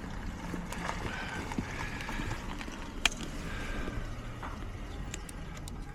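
Riding noise from a Murf fat-tyre e-bike in the rain: a steady low rumble of wind and wet road, with a faint high whine and a sharp click about three seconds in.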